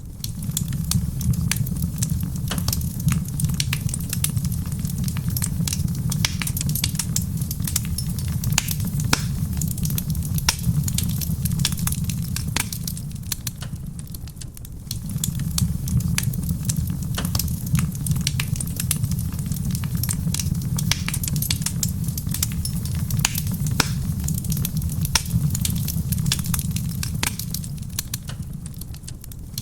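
Wood fire burning in a stone fireplace, crackling with many small pops over a steady low rumble, with soft rain pattering on a roof beneath it. The sound dips briefly about halfway through and again near the end.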